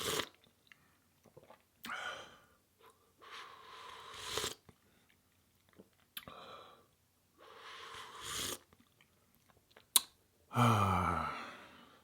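Close-miked eating sounds: chewing, with several long, loud breaths in and out through the nose between bites. There is a sharp click about ten seconds in, then a short voiced sigh falling in pitch near the end.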